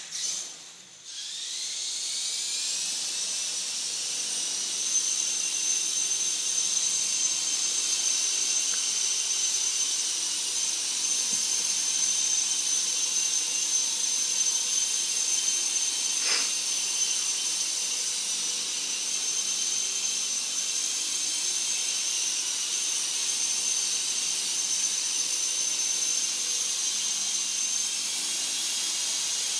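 E-sky coaxial RC helicopter's electric motors and twin rotors spinning up about a second in, rising in pitch, then running at a steady high whine with rotor hiss. A single brief click comes about halfway through.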